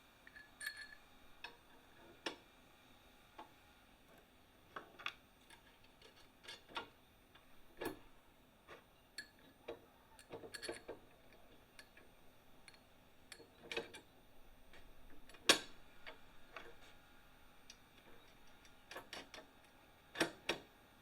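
Irregular light clicks and taps of small steel parts and hand tools being handled and set down. The loudest knock comes about fifteen seconds in; there is no running machine.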